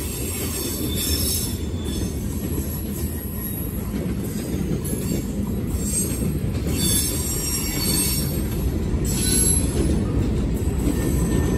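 Freight cars rolling past at speed: a steady low rumble of steel wheels on rail, with a high-pitched squeal that comes and goes.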